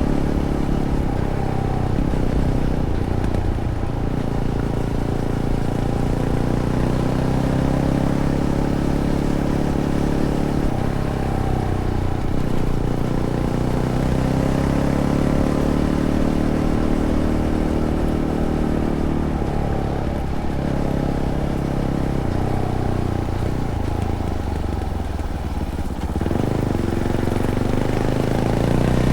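Fantic Caballero 500's single-cylinder engine through its stock Arrow exhaust, ridden on a trail. The engine note rises and falls repeatedly as the throttle is opened and closed through the gears.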